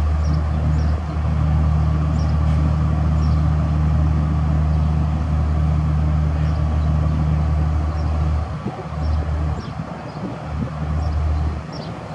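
Diesel passenger train running at the station with a loud, steady low engine drone that breaks up and stops about three-quarters of the way through. Birds chirp faintly at the same time.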